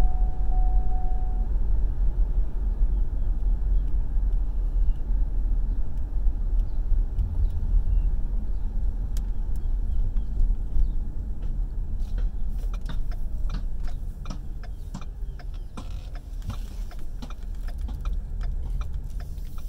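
A car's low, steady rumble from inside the cabin while driving. About twelve seconds in, a run of sharp clicks and knocks joins it.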